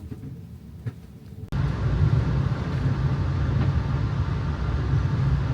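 Faint quiet with a few light clicks, then an abrupt switch about a second and a half in to a loud, steady low rumble of a vehicle running, heard from inside.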